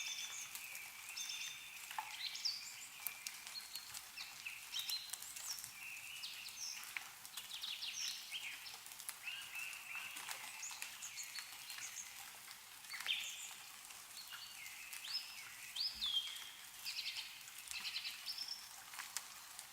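Small songbirds chirping and singing: many short whistled notes, trills and quick rising and falling calls overlapping throughout. Scattered faint ticks of meltwater dripping from snowy trees.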